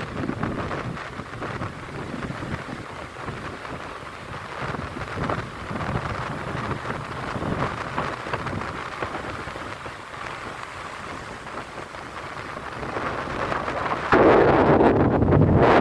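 Wind buffeting the microphone over the wash of sea waves at the shore, rising and falling irregularly, with a sudden louder gust near the end.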